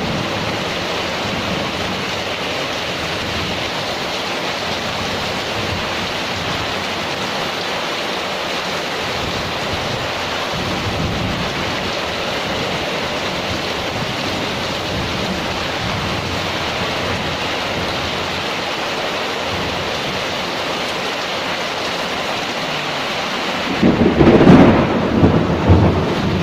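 Heavy rain pouring steadily, then about two seconds before the end a loud clap of thunder breaks in and rumbles, peaking twice.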